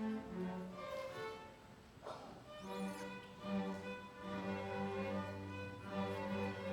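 Bowed string music: a violin plays a melody of held notes. A brief quiet gap comes about two seconds in, and a low sustained bass note joins underneath about four seconds in.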